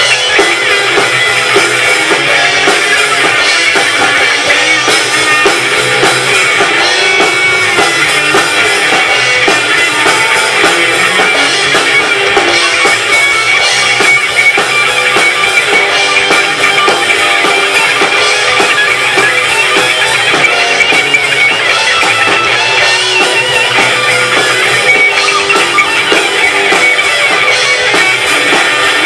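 Rock band playing live: loud guitar over a drum kit.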